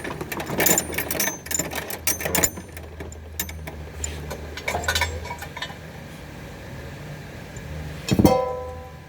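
Metal tools and parts clinking and clattering over a steady low hum, then about eight seconds in a single loud metal clang that rings briefly.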